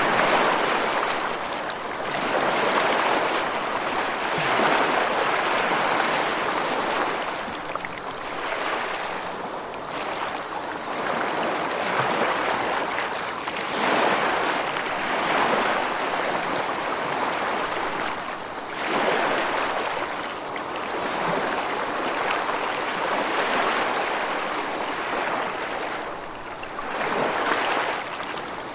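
Rushing water: a continuous hiss that swells and ebbs every few seconds.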